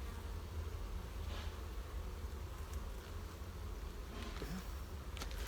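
Honeybees buzzing around an open hive whose frames are being inspected; the colony is busy.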